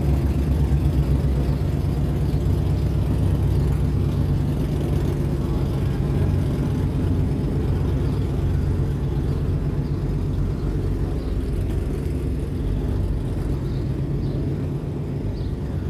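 A car engine running steadily with a low, pulsing exhaust note, slowly getting quieter.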